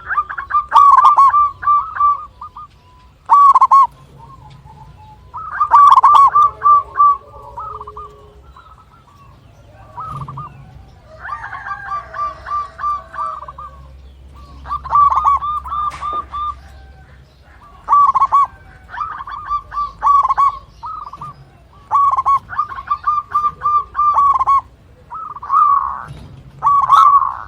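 Zebra dove (perkutut) singing: repeated phrases of quick staccato coos, each opening with a louder note, coming every couple of seconds, with a softer phrase about midway.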